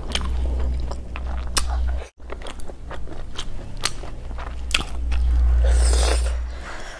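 Close-miked mukbang eating of snail curry: chewing and crunching with sharp clicks over a steady low hum, broken by a brief dropout about two seconds in. A loud rush of noise swells and fades a little after five seconds.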